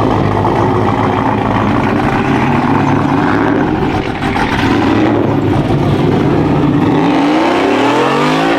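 Vehicle engines running loud and steady, with one engine revving up, its pitch rising, over the last second or two.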